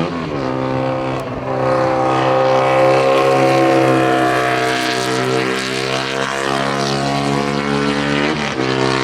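An engine running at a steady speed with an even droning note. Its pitch swells slightly in the first half, and it dips briefly just after the start and again near the end.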